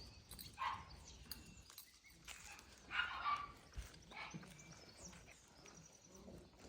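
Dalmatian puppies yapping and yipping in play: a few short, faint yaps, the loudest about three seconds in.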